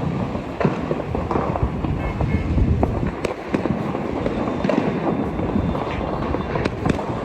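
Fireworks and firecrackers crackling and popping without a break, many sharp cracks close together over a steady din.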